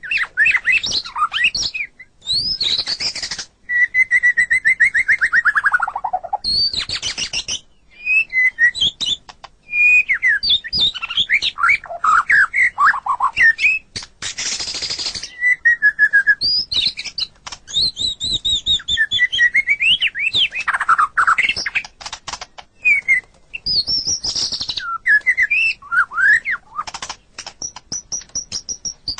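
White-rumped shama (murai batu) singing a varied song of loud whistled phrases, fast trills and rising and falling glides. A long falling trill comes about four seconds in, and harsh raspy bursts come near the start and about halfway.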